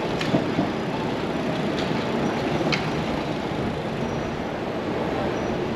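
Steady wind and road noise from riding a bicycle, with a few faint clicks.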